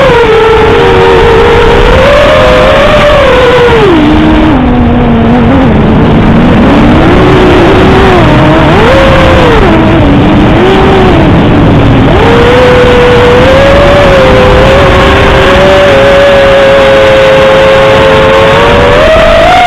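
Quadcopter drone's motors and propellers whining at a steady pitch. For several seconds in the middle the pitch drops and wavers as the motors work, then it climbs back and holds steady. Heavy wind rumble runs underneath.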